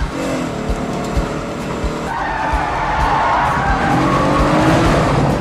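Audi S8's V8 engine revving hard, its pitch falling and then climbing again, with tires squealing from about two seconds in.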